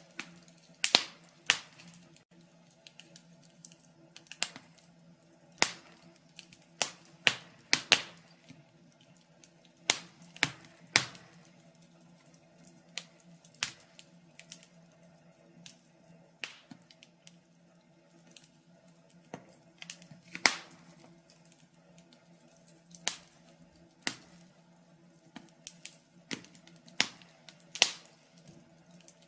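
Wood fire crackling: irregular sharp pops and snaps from burning logs, some in quick clusters and some spaced seconds apart, over a faint steady low hum.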